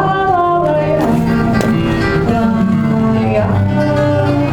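Acoustic guitar (violão) playing with a female singing voice, with held notes and a voice-like glide at the start. These are the closing moments of the song.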